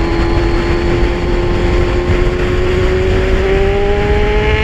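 Kawasaki Z1000's inline-four engine pulling steadily under way, its pitch rising slowly as the bike gains speed in one gear, with wind rushing past.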